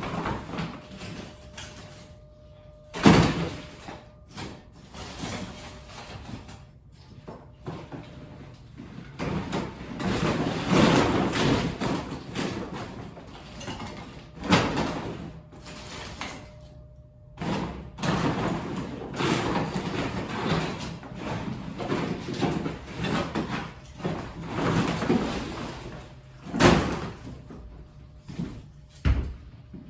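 Removed pieces being sent down a makeshift slide: repeated noisy scraping as they slide, and sharp thuds as they land, the loudest about three seconds in and twice near the end.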